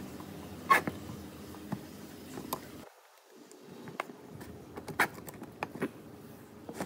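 Scattered small clicks and taps of metal parts and pliers against a plastic chainsaw housing as the saw is reassembled by hand. The sharpest click comes about a second in.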